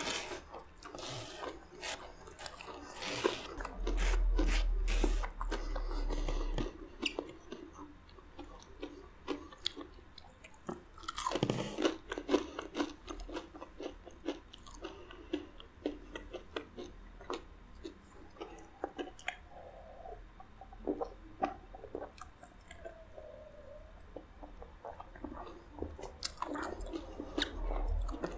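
Close-miked chewing and swallowing of fried food, with wet mouth clicks and some crunch, busiest in the first half and thinning out later. A low rumble comes in for a couple of seconds about four seconds in.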